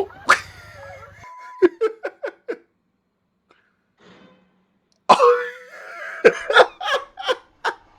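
A man laughing in two runs of short, choppy bursts, the second run louder, with a pause in between.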